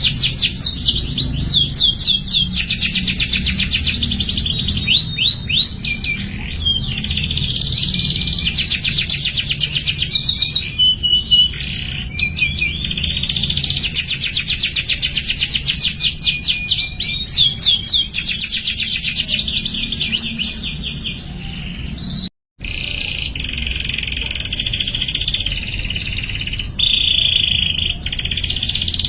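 Domestic canary singing a long, continuous song of fast trills and rolls with sweeping whistled notes between them. The song cuts out briefly about three-quarters of the way through and then carries on.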